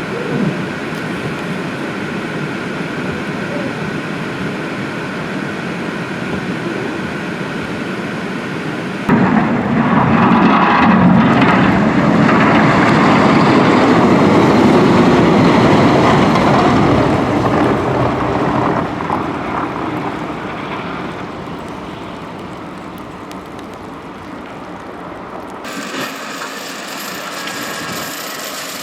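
Road traffic noise. About nine seconds in it jumps abruptly to a louder rushing sound, like a heavy vehicle going by, which swells, then fades over about ten seconds. The sound changes abruptly again near the end.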